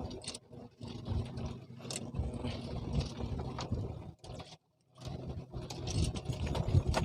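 Boat engine running with a steady low hum, overlaid by clattering and knocking handling noises; the sound cuts out completely for about half a second near the middle.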